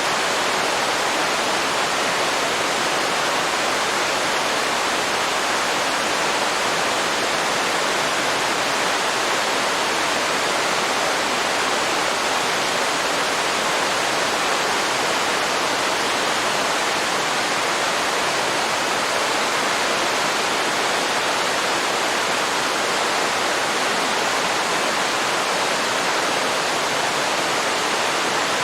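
Waterfall pouring into a river: a steady, even rush of falling water with no change.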